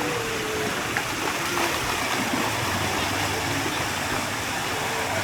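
Steady rush of running, splashing water from water-park play features, with faint children's voices in the background.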